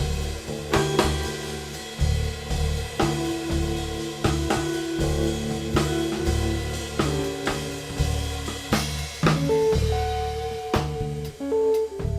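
Guitar, cello and drum kit trio playing an instrumental piece: held melodic notes over low bass notes, with a drum or rimshot strike about every second.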